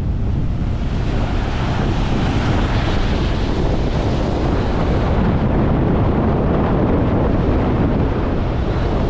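Strong wind buffeting the microphone: a continuous, loud rush of noise with a heavy low rumble, gusting a little stronger in the first half.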